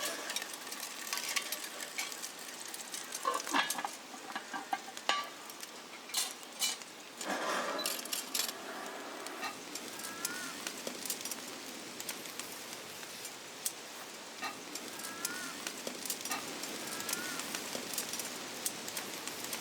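Food sizzling in a pan over a campfire, a steady frying hiss with scattered clicks and clinks of a utensil against the pan, and a louder scrape or stir about halfway through.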